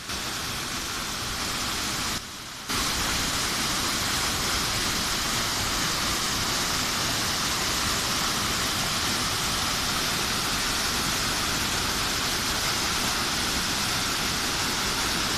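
Lotrișor waterfall rushing: a steady, even roar of falling water, with a brief drop in level about two seconds in.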